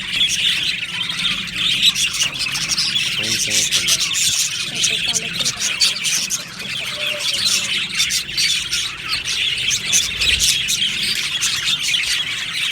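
A flock of budgerigars chattering and chirping continuously, many birds at once, with scattered squawks.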